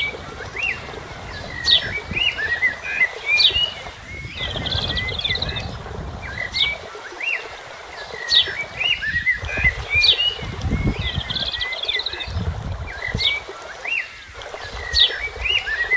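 Several songbirds singing, a stream of repeated high chirps and short trills, over a low, uneven rumble of wind on the microphone.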